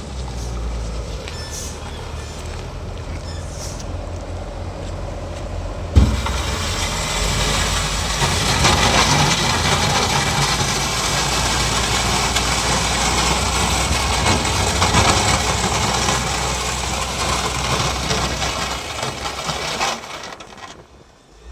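Heavy vehicle engine running steadily and low, then a sharp knock about six seconds in, after which a much louder, rougher noise runs until it falls away near the end.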